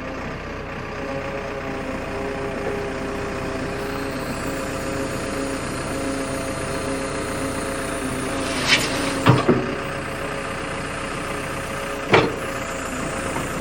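Excavator's diesel engine running steadily while its freshly repaired hydraulic system is tried out, low on hydraulic fluid. A few sharp knocks sound about nine seconds in and one more near the end.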